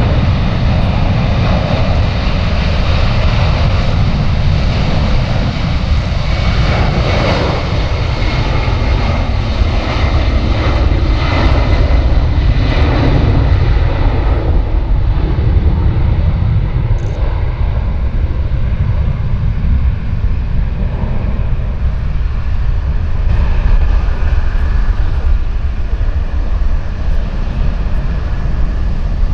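Jet airliner's engines running at takeoff power during its departure: a loud, steady rumble, with a whine of engine tones that swells about seven seconds in and fades after about fourteen seconds.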